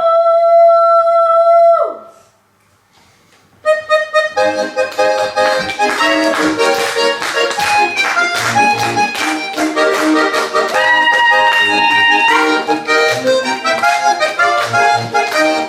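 A singer's last held note ends about two seconds in; after a short pause an accordion starts playing a brisk folk dance tune, the introduction to a chastushka song.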